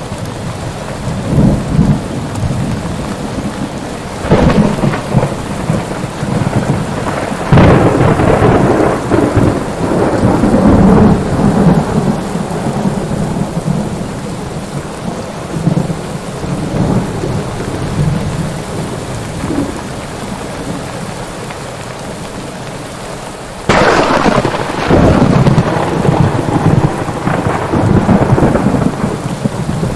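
Thunderstorm: steady heavy rain with thunder rolling in it, a couple of sharp claps trailing into rumble in the first third, and a sudden loud crack late on followed by long rumbling.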